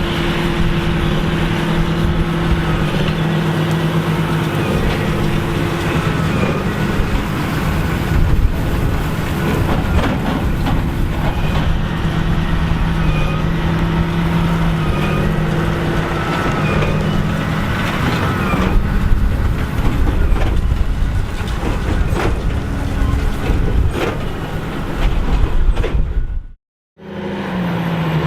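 John Deere 8530 tractor's six-cylinder diesel running steadily under load while pulling a Massey Ferguson 2190 large square baler, with scattered knocks from the baler. Near the end the sound cuts out for a moment, then returns with the engine note falling.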